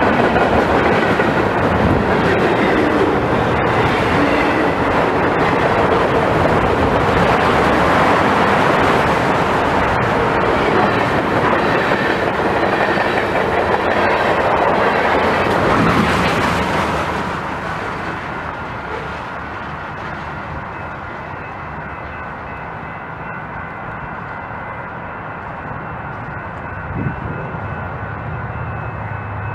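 Train rolling past, its wheels clacking over the rail joints. It is loud for the first half, then fades to a quieter steady rumble about seventeen seconds in.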